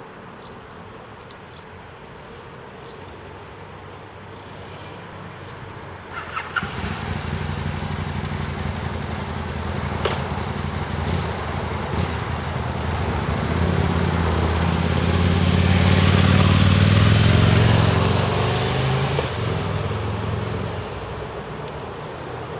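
Aprilia Tuono 1000's 998 cc V-twin engine starting about six seconds in, then running. Its revs rise gradually, are held higher for a couple of seconds about three-quarters of the way through, then drop back toward idle.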